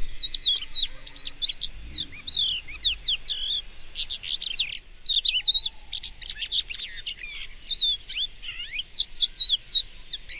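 Songbirds chirping: a dense, unbroken run of quick, high, sweeping notes that overlap one another.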